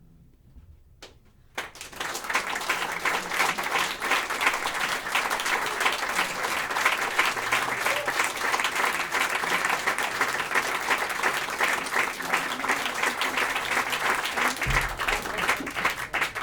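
Audience applauding at a live jazz set: after a second and a half of near quiet the clapping breaks out suddenly and carries on steadily.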